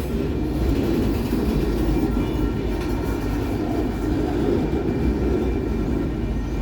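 Train rolling past, a steady rumble of wheels on rails that holds at an even level throughout.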